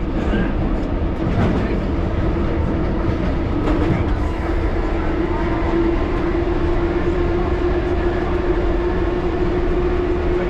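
1938 Tube Stock train running on the London Underground: a steady rumble of wheels on track with a few clicks in the first seconds, and a traction-motor whine that rises slightly about four seconds in and then holds steady.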